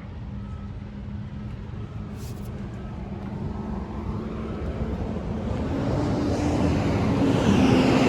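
A motor vehicle engine running with a steady low hum. It grows steadily louder through the second half.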